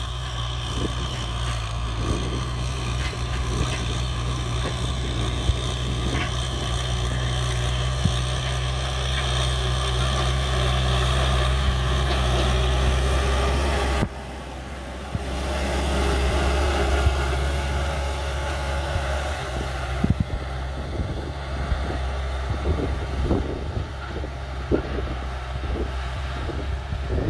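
Tractor diesel engine running steadily under load, with an abrupt break about halfway through. Scattered short knocks in the second half.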